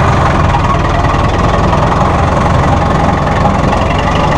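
Perkins 4.4-litre four-cylinder diesel engine of a Massey Ferguson 573 tractor running steadily at low engine speed, with an even low-pitched throb.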